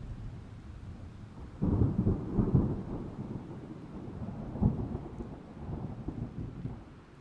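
A thunderclap: a low rumble breaks in sharply about one and a half seconds in, crackles with a second peak a few seconds later, and rolls away toward the end, over rain.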